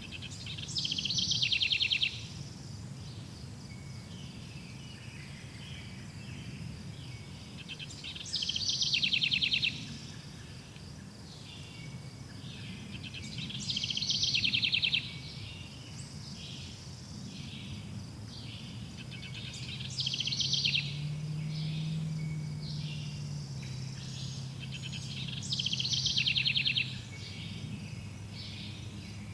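Forest ambience: a songbird sings the same short phrase five times, about every six seconds, each phrase ending in a rapid trill. Fainter bird or insect chirps and a steady low rumble run underneath.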